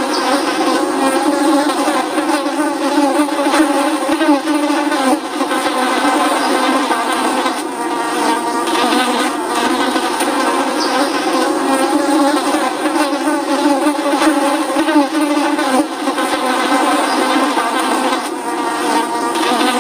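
Flies buzzing steadily: several overlapping drones that waver up and down in pitch.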